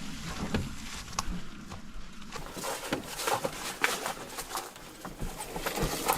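Footsteps crunching and twigs snapping on the forest floor, an irregular run of sharp crackles and clicks.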